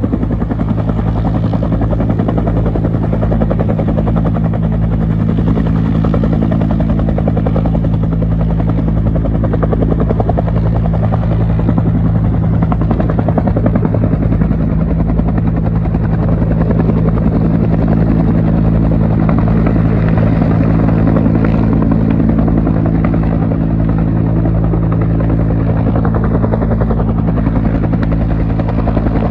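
Military helicopter running loud and steady, its rotor blades chopping in quick regular pulses over a low engine hum.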